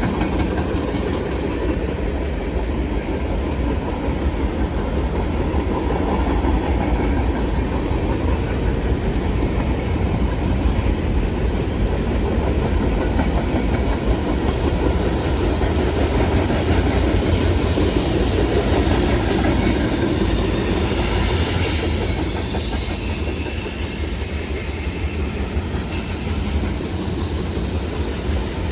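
Train rolling past on the rails: a steady rumble and clatter of wheels, with a high wheel squeal about twenty seconds in.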